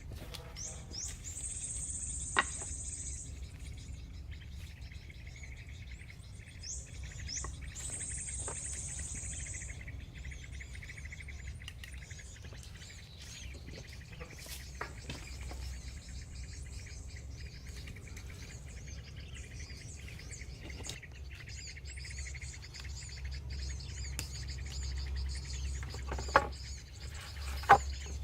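Forest birds singing, with two bright, high song phrases in the first ten seconds, each opened by quick rising notes, over a low steady rumble. A few sharp knocks stand out, the loudest two near the end.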